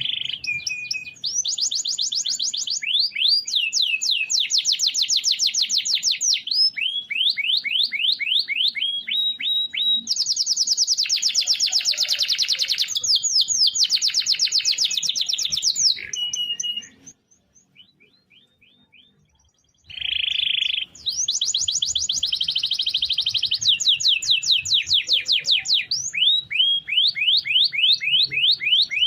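Domestic canary singing long, rapid rolling trills of quickly repeated high notes, changing from one trill to the next. A pause of about three seconds past the middle, then the trills start again.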